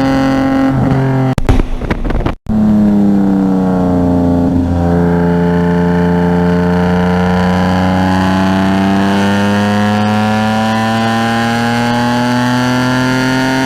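Race car engine running at speed. Its note breaks off briefly about two seconds in, drops, then rises slowly and steadily as the car accelerates.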